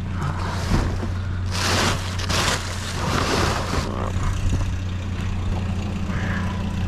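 Vehicle engine idling with a steady low hum. Over it, two bursts of rustling and clatter about 1.5 and 3 seconds in, as junk in a dumpster is moved around.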